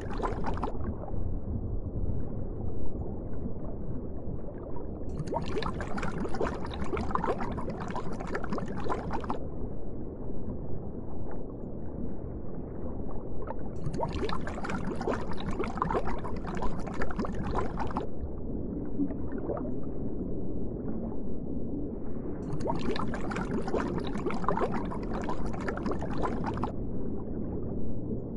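Underwater water ambience: a steady low rumble of moving water, with a hissing bubbling-and-gurgling stretch about 4 s long returning three times, every eight to nine seconds.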